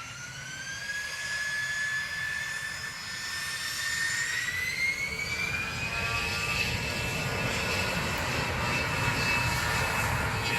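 Bombardier Global 5500's Rolls-Royce Pearl 15 turbofan engines spooling up to takeoff thrust: a whine climbs steadily in pitch for about six seconds and then holds, over a rushing rumble that grows louder.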